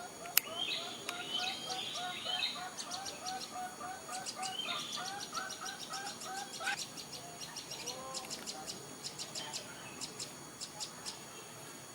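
Wild birds calling: one repeats a short pitched note about three times a second until it stops about two-thirds of the way through, over a rapid high ticking chatter from another bird. A single sharp click about half a second in.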